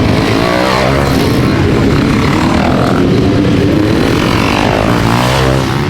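Motocross dirt bike engines racing on the track, loud and revving, their pitch rising and falling with the throttle.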